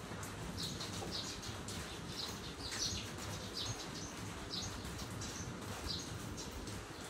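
Small birds chirping, short high chirps repeating about once or twice a second, over a low steady background hum of outdoor noise.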